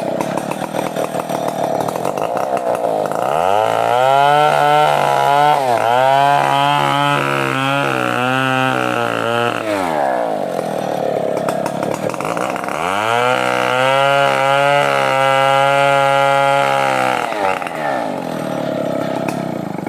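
Stihl 070 two-stroke chainsaw running at full throttle. Twice its pitch drops and holds low for about six seconds as the chain bites into the wood under load, then climbs back as the cut eases.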